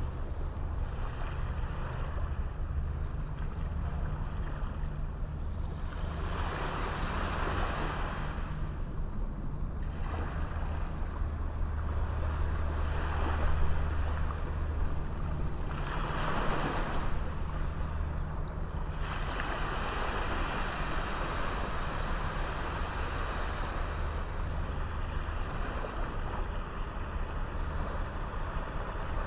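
Small sea waves breaking and washing up a beach, the surf hiss swelling every few seconds, over a steady low rumble of wind on the microphone.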